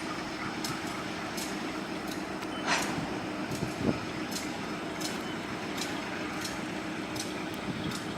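GE B23-7 diesel-electric locomotive running with a steady engine hum. A sharp, bright tick repeats a little over once a second throughout. There is a short hiss about two and a half seconds in and a thump about a second later.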